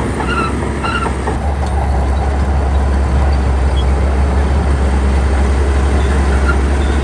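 Bulldozer diesel engine running under load, a loud, steady low drone that grows a little louder after a couple of seconds.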